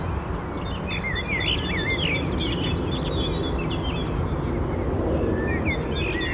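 Birds singing, with warbling whistled phrases and a quick series of short repeated high notes, over a steady low background rumble.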